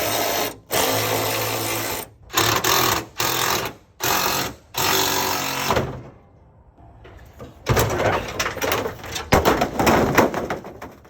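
Handheld power tool on the truck's front-end metal, run in repeated bursts of one to two seconds with short pauses, then a quieter spell and more bursts near the end.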